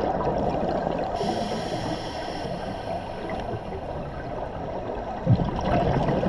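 Underwater bubbling and gurgling from a scuba diver's exhaled air, with a sharper burst about five seconds in.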